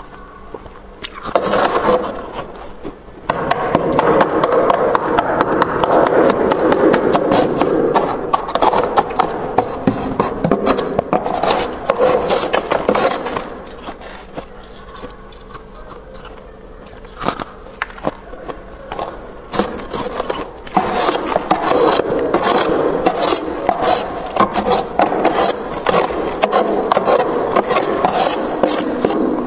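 Built-up freezer frost being scraped: a dense, grainy crackling full of small clicks, which eases off for a few seconds in the middle and then picks up again.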